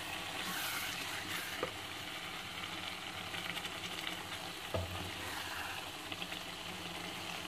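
Thick mutton-and-cabbage curry sizzling and frying in a non-stick pot while being stirred with a wooden spoon, with a couple of short knocks of the spoon against the pot. The curry is being fried down until the oil separates.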